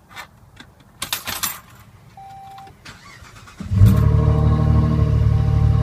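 Key clicks and rattles and a short beep, then a 2006 Saab 9-3 Aero's 2.8-litre turbocharged V6 starts about three and a half seconds in, flaring up and settling into a steady, loud idle. It runs through an open Magnaflow exhaust cutout ahead of the Y-pipe, effectively straight piped.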